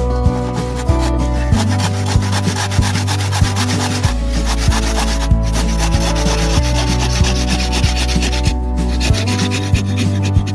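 Wood being sanded: a dense, scratchy rubbing texture that carries on throughout, over background music with a steady bass line and a regular beat.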